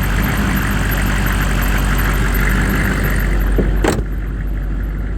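GMC 1500's Detroit diesel V8 idling steadily, with a single sharp knock about four seconds in.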